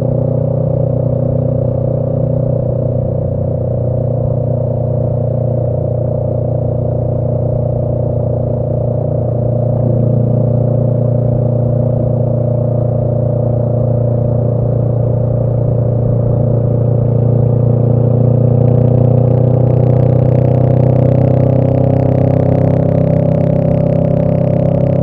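2018 Honda Rebel 500's parallel-twin engine running through a Radiant Cycles Shorty GP aftermarket exhaust, cruising at a steady pace. It gets a little louder about ten seconds in and again near the end, when a hiss joins in.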